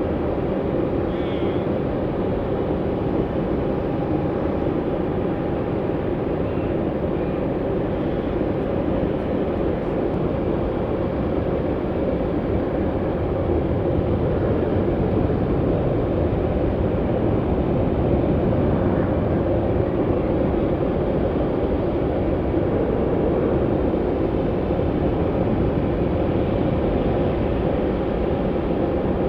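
Aircraft engines running, a steady noise with a faint constant whine, swelling a little about halfway through.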